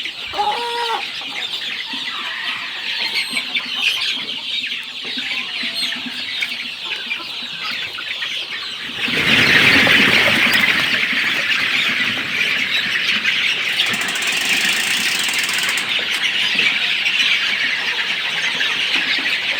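A crowd of chickens calling together, a dense high cheeping and clucking that grows louder about halfway through.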